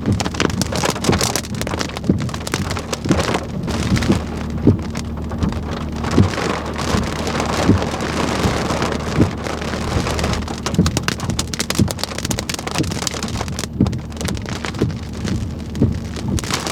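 Rain falling steadily, with many separate drop hits over a steady low hum.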